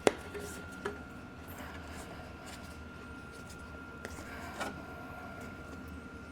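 Mountain bike tire being worked onto its rim over a foam run-flat insert: a sharp click just after the start and a smaller one just under a second in, then scattered rubbing and scraping of the tire bead against the rim, over a steady faint high whine.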